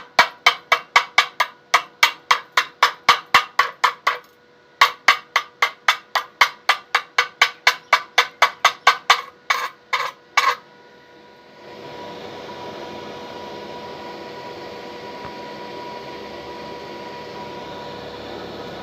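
Rapid hammer blows on metal, about four to five a second, stopping briefly about four seconds in and then going on until a ragged finish. About twelve seconds in, a steady hiss starts and keeps going.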